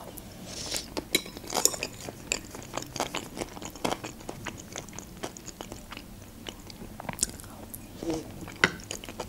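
Close-miked chewing of Olivier salad (diced potato, peas, sausage and pickle in mayonnaise and sour cream), with many small, irregular mouth clicks as each forkful is eaten.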